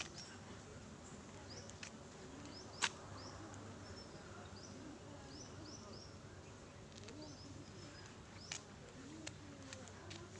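Many short, high, upward chirps from small animals, scattered irregularly, over a faint low murmur, with a few sharp clicks, the loudest about three seconds in.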